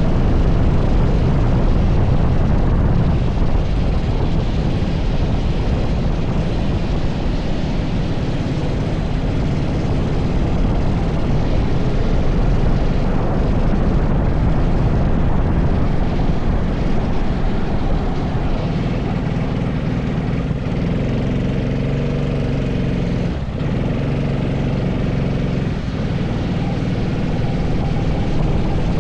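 80cc racing kart engine running continuously, with heavy wind rumble over it. In the second half the engine's pitch comes through more clearly, with a brief dip in sound a few seconds before the end.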